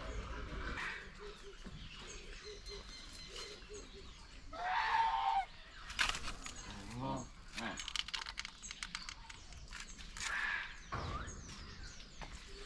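Mixed birds calling and chirping, with small high chirps throughout and louder calls about five seconds in and again near ten seconds. A quick run of clicks comes between the two louder calls.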